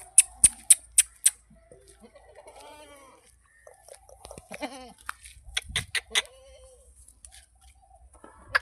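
A goat bleating in wavering calls, opened by a quick run of five sharp clicks in the first second and a half.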